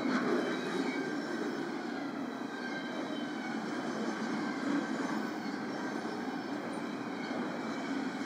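Cars of a BNSF intermodal freight train rolling past: a steady rumble of steel wheels on rail, with faint thin high tones over it.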